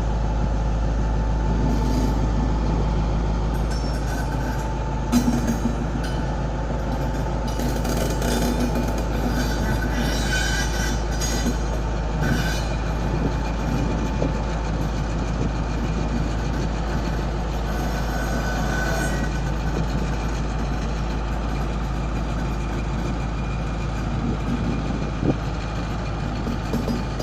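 Diesel-hauled passenger train moving slowly through a station track change, the locomotive's engine giving a steady low rumble. Brief metallic squeals come in twice and a couple of sharp knocks are heard.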